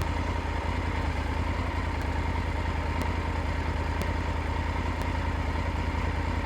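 Triumph Tiger 900 GT Pro's three-cylinder engine running steadily.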